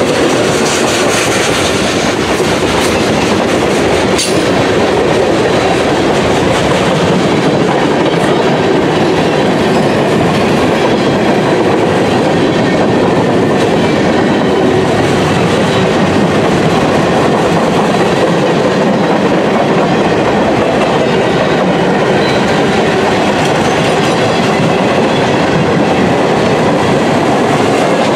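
Freight cars of a CSX mixed freight train (tank cars, hoppers and boxcars) rolling steadily past, with continuous wheel and rail noise and the clickety-clack of wheels over rail joints, plus an occasional knock.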